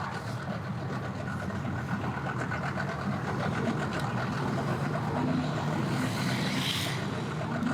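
An engine idling steadily with a low hum, with a brief hiss about six to seven seconds in.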